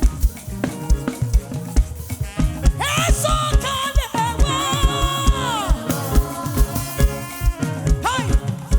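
Live band playing upbeat African gospel praise music: a drum kit keeps a fast, steady beat over bass, and a high melodic line sliding in pitch comes in about three seconds in, fades by six seconds, and returns briefly near the end.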